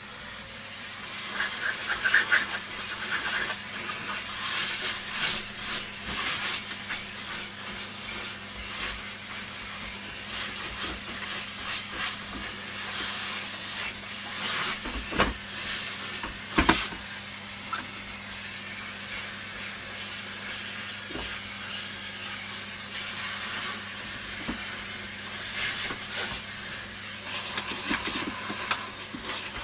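Steady rushing hiss of moving air with a faint high whine, from a tool used to clean dust off the vacuum cleaner's parts, with scattered clicks and two sharp knocks, the loudest about 17 seconds in.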